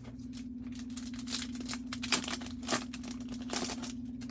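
Foil card-pack wrappers crinkling and tearing as trading-card packs are opened and the cards handled, in several short rustles, over a steady low hum.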